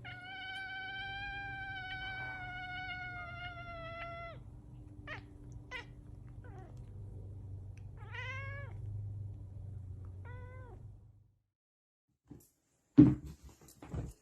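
A cat meowing: one long drawn-out meow of about four seconds, then two short meows a few seconds later, over a low steady hum. Near the end a couple of sharp knocks.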